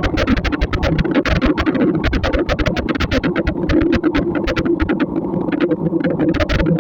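Dense, irregular ticking of raindrops striking a vehicle, over the steady low hum of the vehicle on the move.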